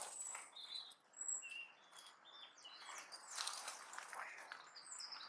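Faint birdsong: scattered short, high chirps and whistles.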